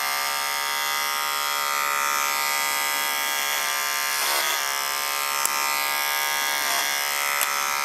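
Electric hair clipper running with a steady buzzing hum, its pitch dipping briefly about four seconds in and again near seven seconds.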